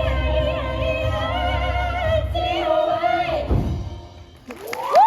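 Live musical-theatre singers and band holding the final sung note of a song, which cuts off about three and a half seconds in. Near the end the audience begins cheering with a high, rising whoop.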